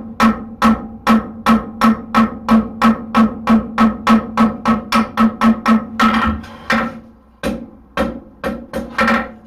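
Hand hammer striking hot steel in a swage on an anvil, about three blows a second, each with a bright ringing note, as the blade of a hoof pick is driven into a scoop shape. The blows break off briefly about seven seconds in, then resume.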